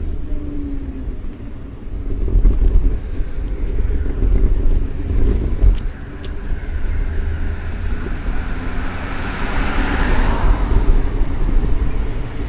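Road traffic, with a vehicle passing close and swelling then fading about ten seconds in, over a steady low rumble.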